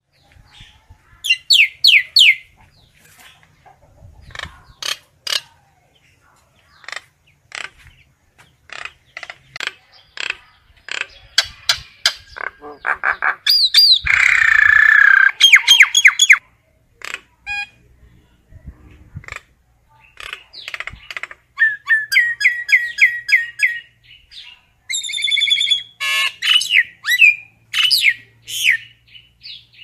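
Common myna calling the flock: a varied string of clicks, quick chattering note series and whistled glides, with a loud, harsh, drawn-out call about fourteen seconds in.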